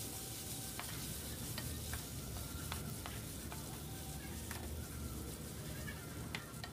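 Onions, green chillies and ginger-garlic paste sizzling in hot oil and ghee in a pressure cooker pot while a wooden spatula stirs them, with scattered light clicks of the spatula against the pot.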